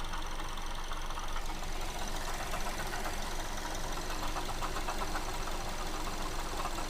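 Mazda2 engine idling with a steady, rapid ringing knock from the belt-driven accessories at the front of the engine. The owner suspects a failing water pump, though the sound seems to carry most strongly near the alternator.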